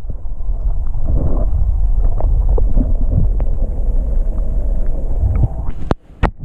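Muffled low rumble and sloshing of sea water heard through a GoPro held under the surface, with soft knocks. It cuts off almost six seconds in, followed by a few sharp clicks.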